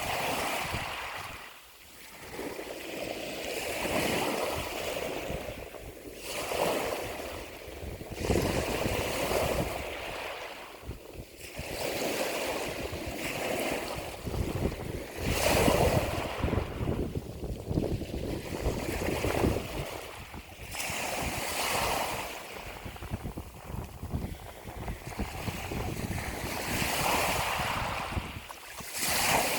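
Ocean waves breaking and washing ashore, the surf swelling and falling again every few seconds.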